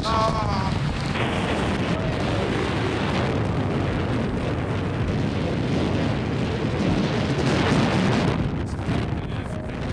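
Heavy wind buffeting the microphone on a fast-moving open boat, with the rush of the boat over the water and spray beneath it.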